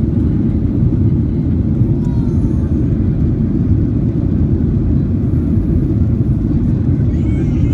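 Steady low rumble inside the passenger cabin of a Boeing 737-800 in flight: the jet engines and airflow heard through the fuselage, even and unchanging.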